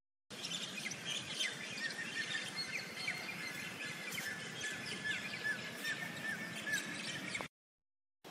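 Small birds chirping: many short, quick high calls, some rising and some falling, over a steady outdoor hiss. The sound starts abruptly just after the beginning and cuts off suddenly about a second before the end.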